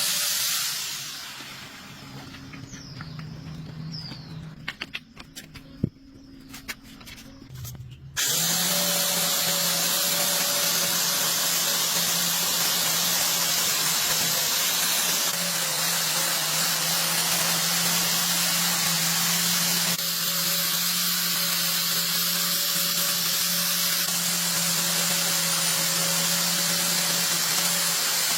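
A power tool starting about 8 seconds in, after a few light clicks, and then running steadily with a loud hiss and a constant hum.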